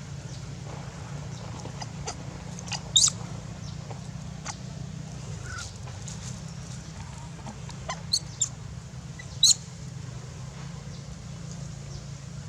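Baby monkey giving a few short, high-pitched squealing cries: one about three seconds in, then three more close together near the middle. A steady low hum runs underneath.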